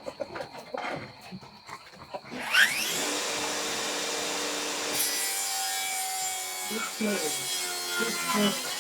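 Electric power saw cutting wood: a few light clicks and knocks, then about two and a half seconds in the motor spins up with a rising whine and runs steadily through the cut.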